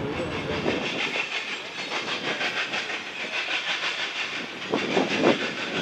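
Freight train cars rolling past on the rails: a steady rushing hiss of wheels on track, with a louder clatter of wheels about five seconds in.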